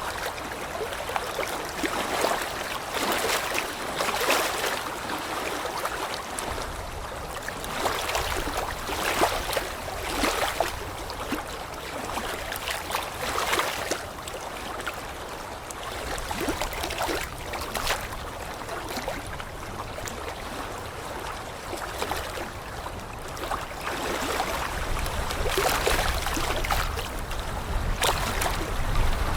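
Moving water splashing and lapping irregularly, with a steady wash of water noise underneath.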